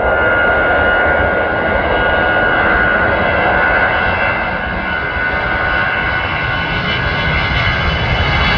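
Airbus A320-214's twin CFM56-5B turbofan engines at takeoff power: a loud, steady jet noise with several high whining tones held over it.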